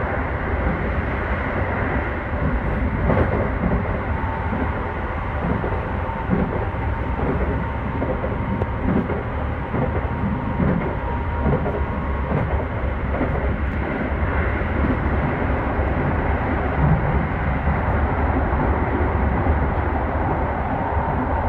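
Keio 5000 series electric commuter train running at speed, heard from inside a passenger car: a steady rolling rumble of wheels on rail. A faint high steady tone comes and goes over it.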